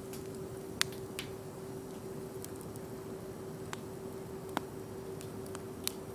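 Wood campfire crackling: sharp, irregular pops and snaps every second or so, a few louder than the rest, over a low steady hiss and a faint steady hum.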